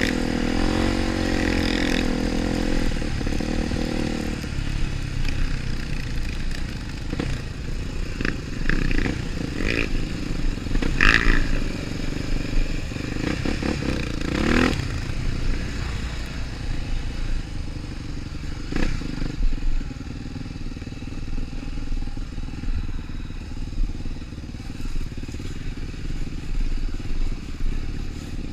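Trail motorcycle engine running, its pitch wavering with the throttle in the first few seconds, then a steadier rumble with scattered knocks and clatter.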